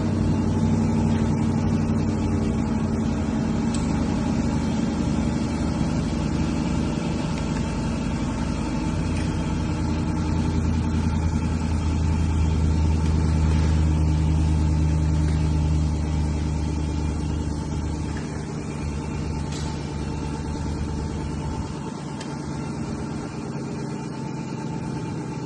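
A motor running steadily with a low hum. Its pitch shifts about halfway through, and it grows quieter over the last third.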